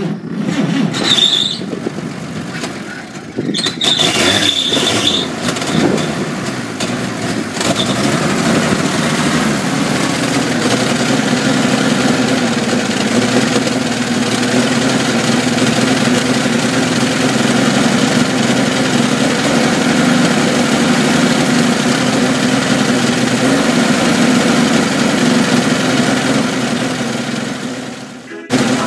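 1952 Chevrolet pickup's straight-six engine starting, with brief high squeals during the first few seconds, then settling into a steady idle.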